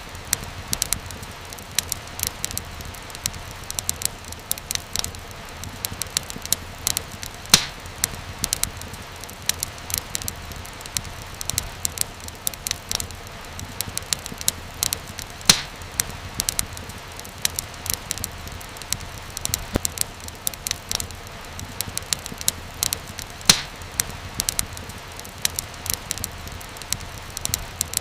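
Fireplace fire crackling, with frequent sharp pops and snaps, a few louder than the rest, over a steady low rumble of the flames.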